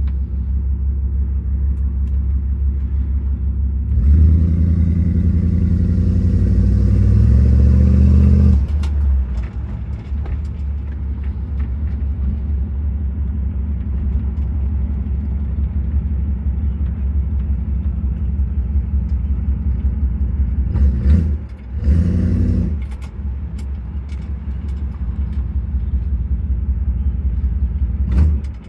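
1964 Buick LeSabre's Wildcat 355 V8 running through a small glass pack with the muffler deleted, a deep steady rumble. It swells louder from about four to eight seconds in and again briefly past the twenty-second mark.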